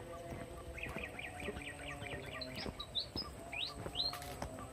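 Small birds chirping: a fast run of short, even chirps about a second in, followed by several quick rising whistled notes.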